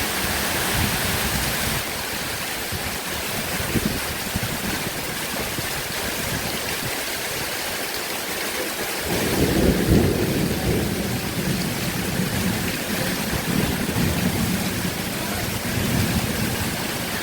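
Heavy rain falling steadily, with a low rumble of thunder coming in about halfway through and rolling on for several seconds.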